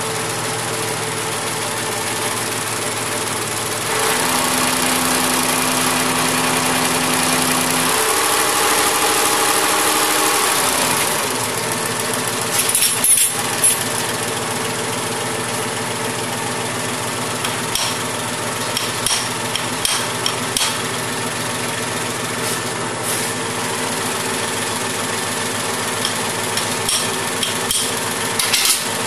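Mahindra tractor's diesel engine running. It speeds up about four seconds in, holds raised, then drops back to a steady idle around eleven seconds. Short sharp clicks sound over the running engine in the second half.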